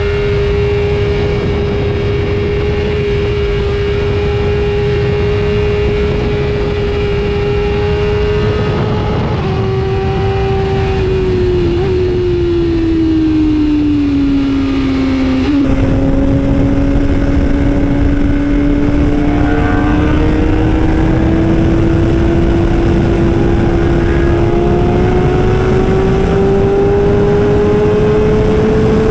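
A motor running at a steady pitch over heavy wind and road rumble; the pitch sags about halfway through and then slowly climbs again.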